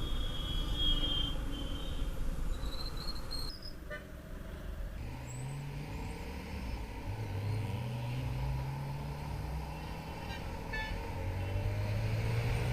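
Road traffic heard while riding: vehicle engines running, their pitch rising from about five seconds in, with short horn toots among them.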